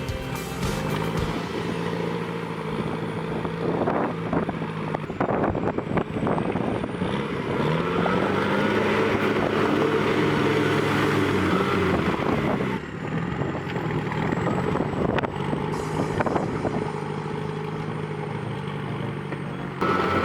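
Heavy vehicle engine running and revving up and down several times, with abrupt changes in the sound where the footage cuts.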